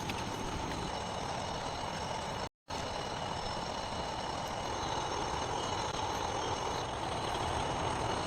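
Steady outdoor background noise with several high, steady tones over it. The sound drops out completely for a moment about two and a half seconds in.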